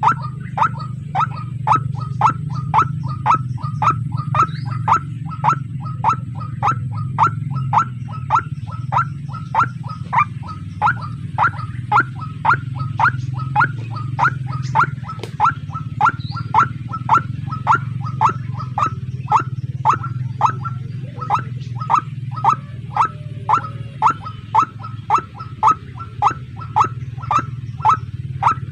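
White-breasted waterhen calling: an even, monotonous series of short falling notes, about two a second, over a steady low hum.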